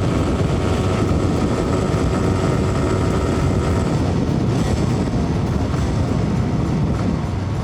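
Air-cooled single-cylinder two-stroke engine of a 1982 Cagiva SX 350 running hard near its top speed of about 110 km/h, heard on board the moving motorcycle. A steady, loud drone that eases slightly near the end.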